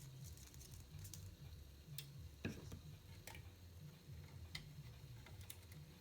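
Faint, scattered clicks and taps of small parts and tools being handled on a workbench, over a steady low hum; the loudest tap comes about halfway through.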